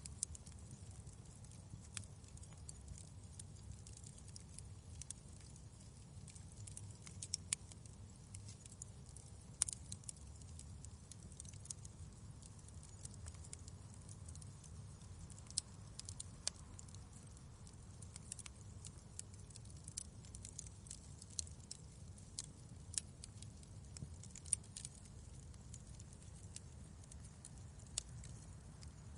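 Fireplace burning: irregular sharp crackles and pops of burning wood, a few louder snaps among them, over a steady low rumble.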